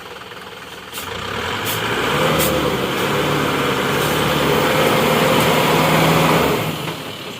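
Heavy lorry's diesel engine working hard at a steady pitch, getting louder about a second in, holding, then dropping away near the end. A few sharp clicks come in the first couple of seconds of the swell.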